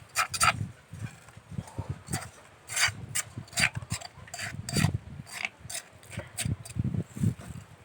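Kitchen utensils scraping and clicking against a mortar as food is mixed, with irregular knocks and a few dull thumps in the second half.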